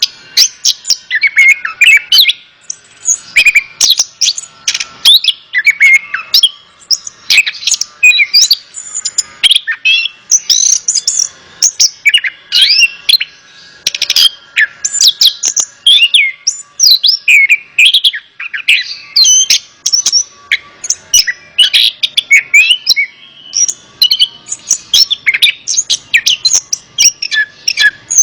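Chestnut-capped thrush (anis kembang) singing a dense, unbroken run of quick, varied chirps and whistles.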